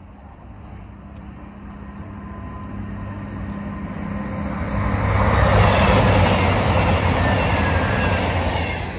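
A CrossCountry Voyager diesel multiple unit approaching and passing at speed: a low engine hum with wheel and rail noise that builds over several seconds, is loudest in the second half and starts to fade at the very end.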